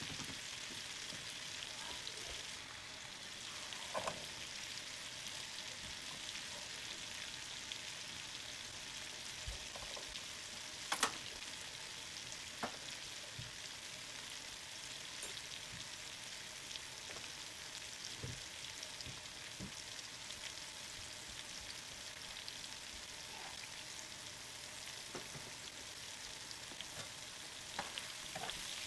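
Food frying in hot oil in a pan on the stove, a steady bubbling sizzle, broken by a few sharp clicks and knocks, the loudest about eleven seconds in.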